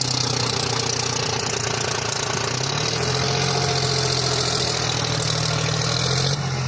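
John Deere 5050D tractor's three-cylinder diesel engine running loudly and steadily while the stuck, loaded tractor-trolley strains in the mud; the engine note rises slightly about three seconds in and eases off just before the end.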